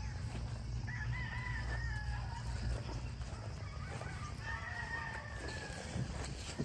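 Rooster crowing twice, long pitched calls, over a low rumble that fades out about three seconds in.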